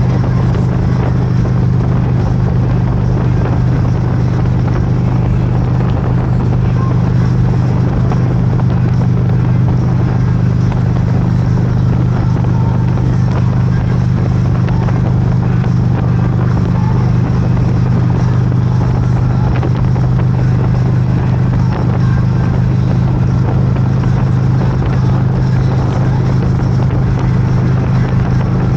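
Motorcycle at a steady cruising speed: a constant low engine drone under heavy wind and road rush, with no change in pitch or level.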